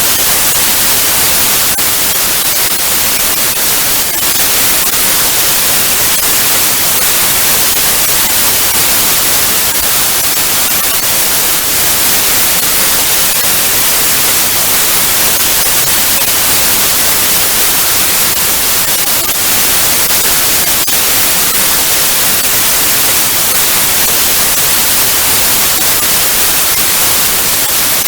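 Loud, steady analogue TV static: an even hiss, strongest in the high range, with faint crackles.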